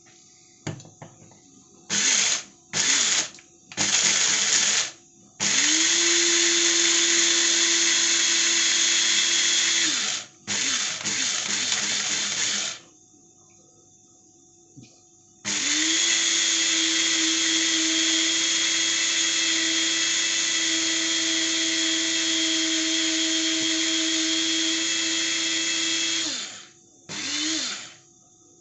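Electric coffee grinder running in bursts: three short pulses, then longer runs of several seconds up to about eleven, each spinning up to a steady high whir, with quiet pauses between.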